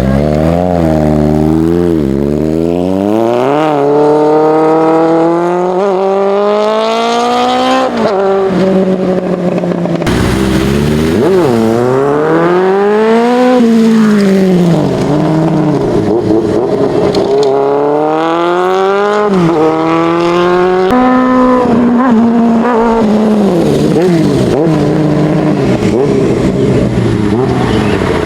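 Kawasaki ZX-11 (ZZR1100) inline-four sportbike engine through an aftermarket exhaust, revving hard again and again as it accelerates through the gears, its pitch climbing and then dropping several times.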